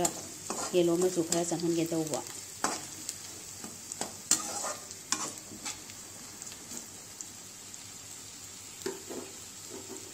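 Oil sizzling steadily in a metal wok as chopped onion, garlic and herbs fry, with scattered clicks and scrapes of a perforated metal spoon stirring against the pan. A held pitched tone sounds over it for the first two seconds, then stops.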